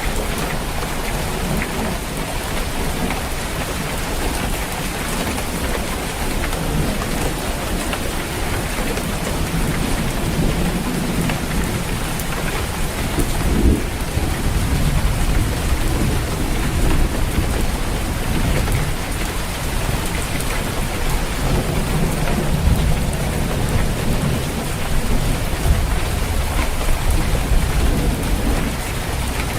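Steady heavy rain falling on a roof, with low rumbles of thunder swelling up twice, about a third of the way in and again in the second half.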